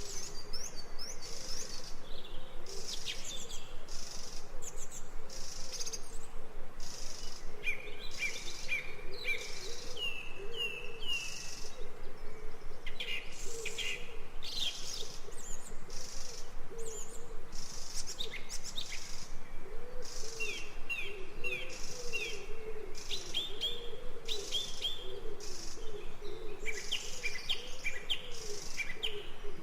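Recorded nature ambience of birds chirping and singing, many short repeated chirps and trills throughout, over a regular pulsing background.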